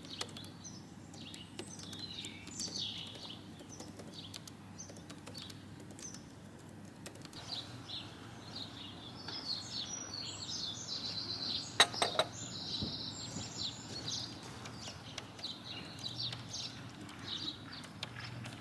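Several songbirds chirping and singing over a steady low rumble. Two sharp clicks come close together about twelve seconds in.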